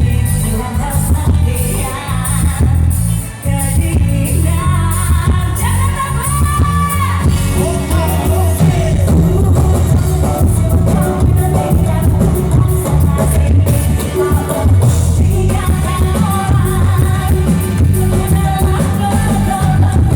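Live dangdut band music with a woman singing over a loud, heavy bass beat.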